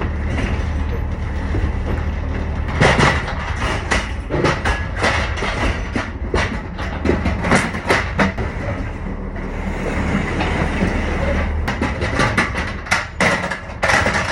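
Truck running with a steady low rumble while its body rattles and clanks, with many irregular sharp knocks on top.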